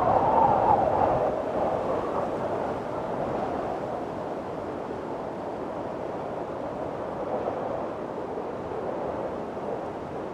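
Strong wind blowing in a storm, a steady rushing with a louder gust near the start that eases off into a steady blow.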